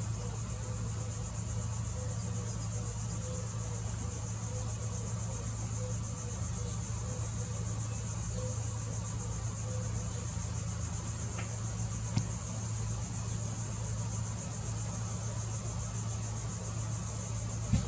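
Insects trilling steadily in a high, unbroken chorus over a constant low hum, with a short tap about twelve seconds in and a louder one near the end.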